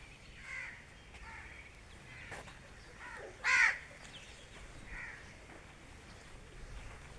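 A bird giving harsh, caw-like calls: about five short calls, the loudest about three and a half seconds in.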